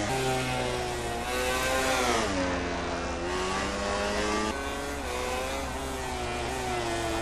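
Engines of MotoGP racing motorcycles running at race pace. Their pitch climbs and falls with throttle and gear changes, dropping sharply about two seconds in.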